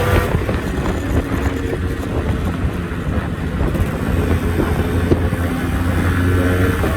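Yamaha RX-series two-stroke single-cylinder motorcycle engine running steadily.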